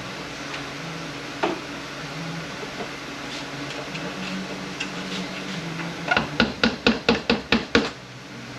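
Hammer tapping at a stuck pin in a Mercedes 722.118 automatic transmission case: one knock, then a quick run of about ten sharp metal strikes, roughly six a second, near the end. A steady hum of a shop fan runs underneath.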